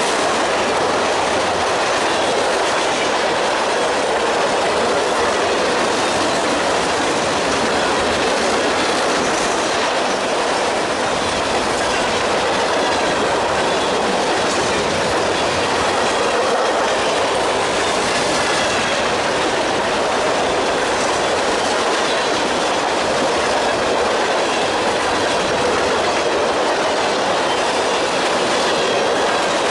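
Canadian Pacific freight train of covered grain hopper cars rolling past close by: steady, loud rolling noise of steel wheels on the rails and the cars' running gear, with no let-up as car after car goes by.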